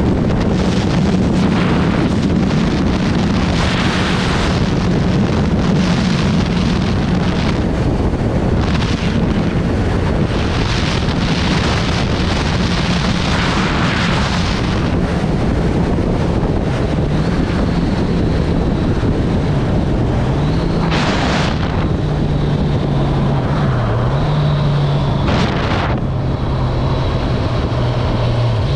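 Kawasaki Z1000SX inline-four engine running at steady cruising revs under heavy wind buffeting on the microphone. The engine note wavers briefly, then settles lower about three-quarters of the way through and holds there.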